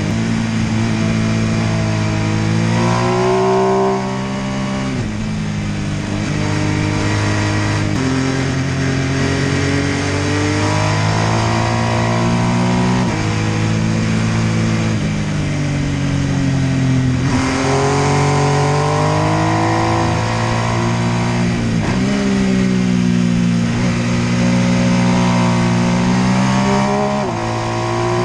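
MV Agusta F3 800's three-cylinder engine pulling on a twisty road, its revs climbing and then dropping abruptly again and again as gears change and the throttle opens and closes.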